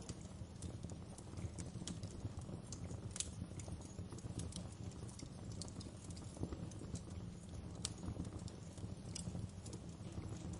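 Wood fire burning in a fireplace, crackling and popping: irregular sharp crackles over a steady low rumble of the flames.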